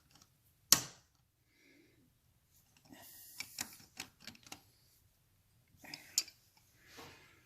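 Metal hand tools clicking and tapping against the front sprocket's nut and lock tab washer as the tab is bent over. A single sharp click comes about a second in, then a quick run of small clicks mid-way and a few more near the end.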